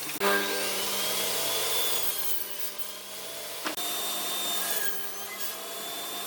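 A power tool working wood, a steady rasping noise with a motor hum that wavers slightly in pitch, broken by two sharp knocks: one just after the start and one a little before four seconds in.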